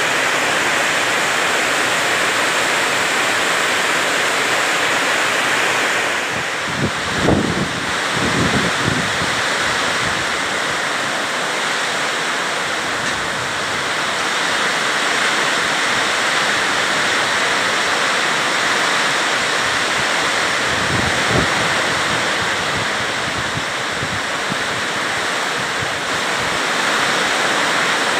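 Heavy rain pouring steadily, a constant dense hiss. There are a few low buffets a third of the way in and again near two-thirds, where gusts of wind hit the microphone.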